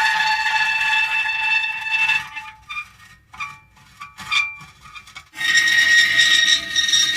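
Metal creaking: a sustained, high squealing groan made of several steady tones. It breaks up into short, scattered squeaks about two seconds in, and a long squeal starts again a little after five seconds.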